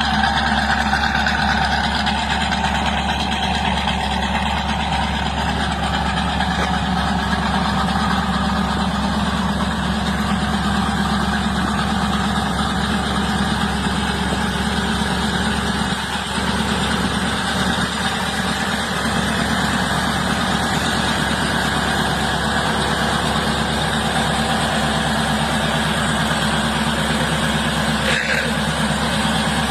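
The 1928 Ford Model A Highboy Roadster's 350 cubic-inch Chevrolet V8 idling steadily, holding one even speed without revving.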